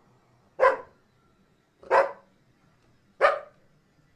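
A dog barking three times, evenly spaced about a second and a quarter apart.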